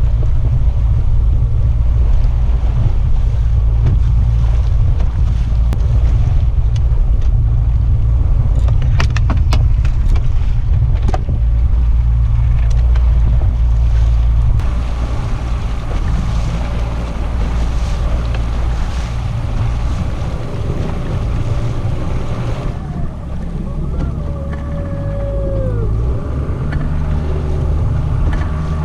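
Boat engine running underway, with wind on the microphone and water noise. About halfway through, the engine drops to a lower, quieter note, and a few sharp clicks come about a third of the way in.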